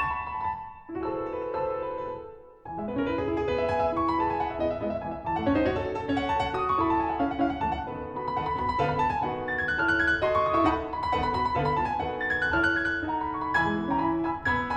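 Background music: piano playing a quick melody over chords, with a short pause about two and a half seconds in.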